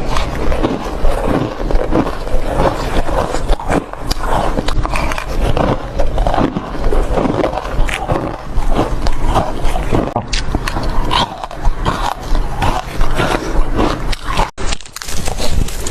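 Close-miked crunching of shaved ice being bitten and chewed: a dense, continuous run of crackling crunches, broken once briefly near the end.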